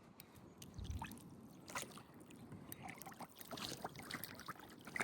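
Small splashes of a hooked brook trout at the surface beside a kayak, with scattered light knocks on the hull and a dull thump about a second in.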